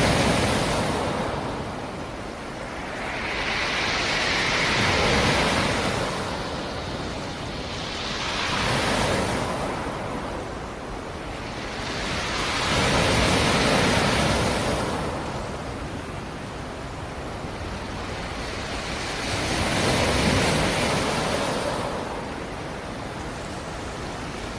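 Black Sea surf: waves rolling in and breaking one after another, each a rushing swell of water that builds and fades, about five in a row a few seconds apart.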